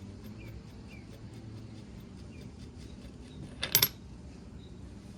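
Small metal parts clinking: a few light ticks, then a quick cluster of two or three sharp metallic clinks about three and a half seconds in, as the nut and washer come off the water pump's impeller shaft and land on a hard surface.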